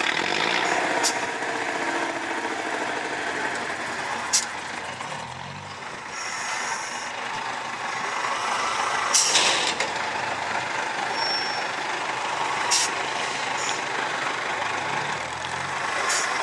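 Off-road trial truck's engine running steadily, with a short air-brake hiss about nine seconds in and a few sharp clicks.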